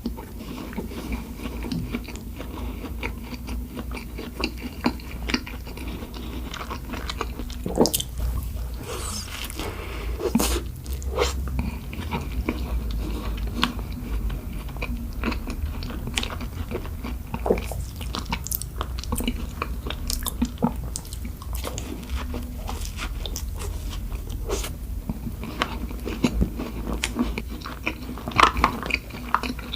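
Close-miked biting and chewing of doughnuts, with many sharp, irregular mouth clicks.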